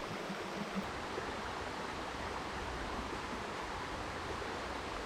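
River water rushing steadily, an even noise of flowing water.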